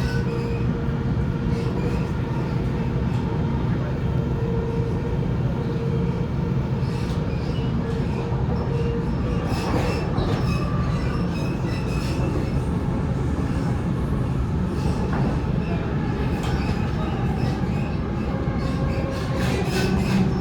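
Interior ride noise of a Sydney Waratah A set double-deck electric train running between stations: a steady rumble of wheels on the track with a constant hum that fades out about halfway through. There are occasional sharp clicks over the rails.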